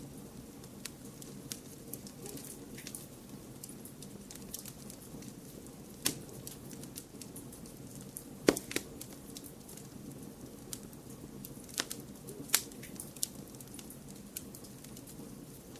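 Wood fire crackling: scattered sharp pops and small clicks over a steady low background noise. The loudest pop comes a little past halfway.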